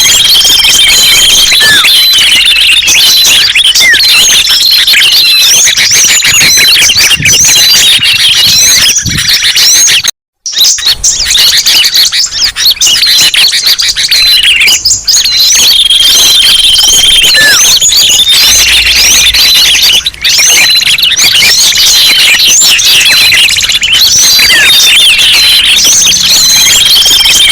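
Bird-lure recording of many small songbirds chirping and twittering at once in a dense, loud chorus of short high chirps and whistles. There is a brief break in the sound about ten seconds in.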